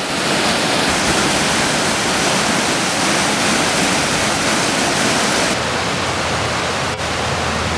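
Waterfall and cascade water rushing steadily and loudly. About five and a half seconds in, the sound shifts a little and a low rumble joins it.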